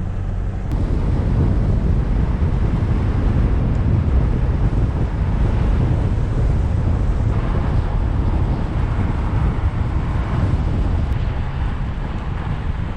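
4x4 vehicle driving over a flood-smoothed sandy riverbed: steady engine and tyre rumble mixed with wind buffeting the microphone. It gets louder about a second in.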